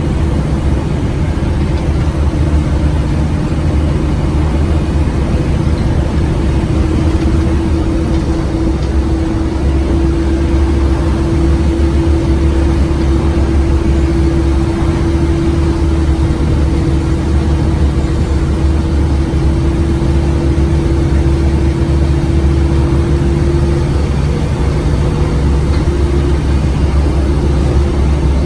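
Scania OmniCity bus engine running steadily under way, a deep drone with a steady whine above it that rises slightly about a third of the way in and then holds.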